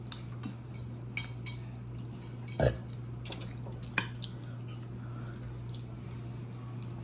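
Eating sounds at a table: faint clinks of spoons and utensils against dishes, with one short sound that slides quickly down in pitch about two and a half seconds in, over a steady low hum.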